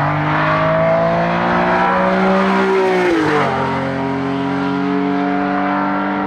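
Hillclimb competition car's engine under hard acceleration, its pitch rising steadily. About three seconds in the note drops sharply as it shifts up a gear, then it pulls on at a steady pitch.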